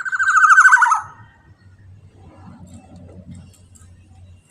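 Black-naped oriole (kepodang emas) giving one harsh, rasping call about a second long that drops slightly in pitch, then only a faint low rumble.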